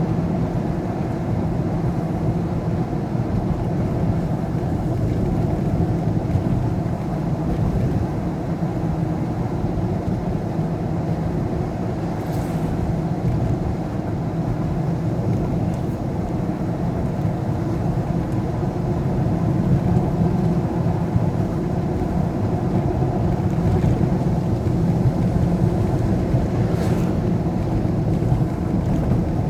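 Steady road and engine noise of a vehicle driving on a highway, a low, even rumble, with two faint brief swishes, one about twelve seconds in and one near the end.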